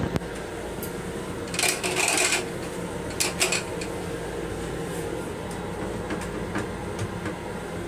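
Steady running noise of a Long Island Rail Road M7 electric railcar, heard from inside its small restroom. A click comes right at the start, and a couple of brief handling noises come about one and a half and three seconds in.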